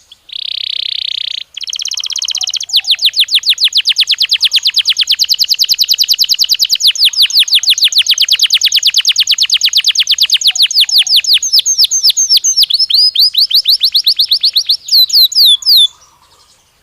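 Belgian canary singing: a short buzzy phrase, then a long rapid trill of repeated sweeping notes lasting about twelve seconds, ending in a few louder, slower notes before it stops.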